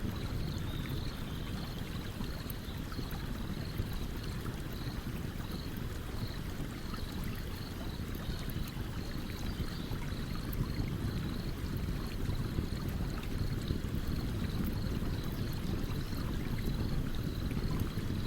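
A stream running steadily, with a campfire crackling over it in small sharp pops, and a faint high chirp repeating about twice a second.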